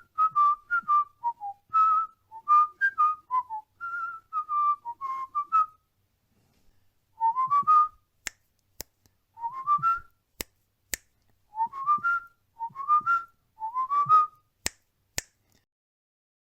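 Cockatiel whistling a tune: a quick run of short whistled notes, then from about seven seconds in a rising whistled phrase repeated four times, with a few sharp clicks between the phrases.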